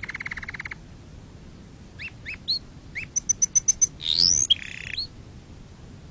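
Domestic canary singing: a fast rattling trill that ends within the first second, then after a short pause a phrase of short chirps, a quick run of high ticking notes, a rising whistled sweep and a brief buzzy note, stopping about five seconds in.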